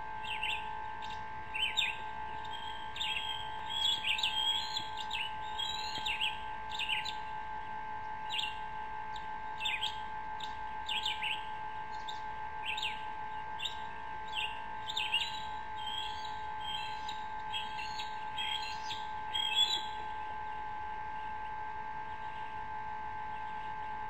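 Bird chirping: short, downward-slurred high notes, a few a second and irregular, that stop about 20 seconds in. A steady hum of several even tones runs underneath.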